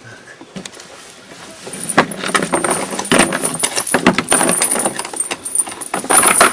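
Gear being handled in a wooden rowing boat: a dense run of clattering knocks and rattles that grows loud about two seconds in.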